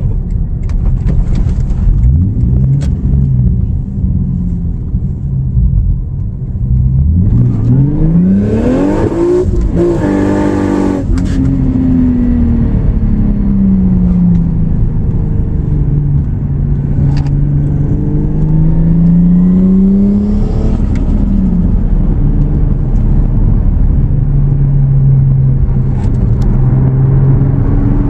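Turbocharged 2JZ straight-six in a Lexus IS300 under way. About eight seconds in, the engine note climbs steeply under hard acceleration with a loud rushing hiss over it, then falls away. It rises once more around twenty seconds, then settles to a steady cruise.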